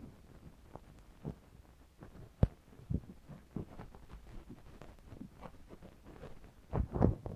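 Quiet, irregular close-up taps and scrapes of handling, with one sharp click about two and a half seconds in and a louder cluster of rustling taps near the end.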